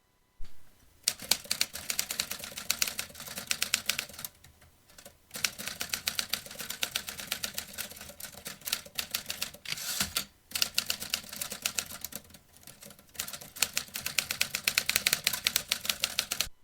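Vintage manual typewriter typed on quickly, its keys striking in fast runs of clicks separated by short pauses.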